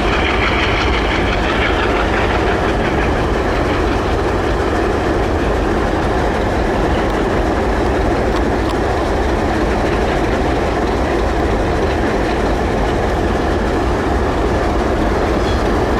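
Diesel-hauled freight train rolling past close by: a loud, steady noise of cars and wheels on the rails.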